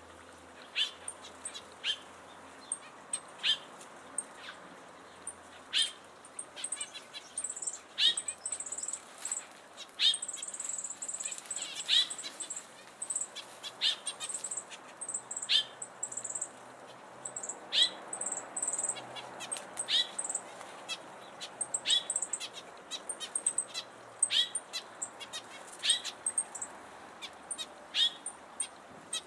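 A thrush singing in short, separate notes every second or so, mixed with high, thin chirping.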